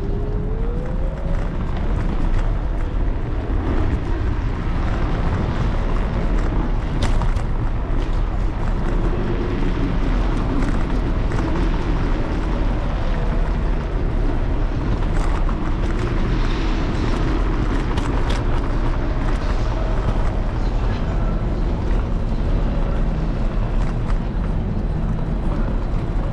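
Street noise heard from a moving electric scooter: a steady low rumble of wind and road vibration on the handlebar-mounted camera, with city traffic around it. A few sharp clicks or knocks come about a quarter of the way in and again past the middle.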